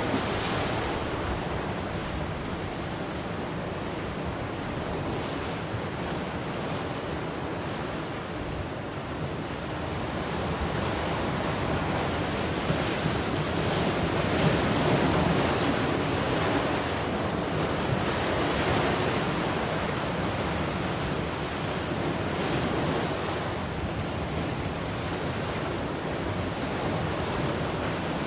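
Ocean surf: waves breaking and washing ashore in a continuous rush, swelling louder around the middle.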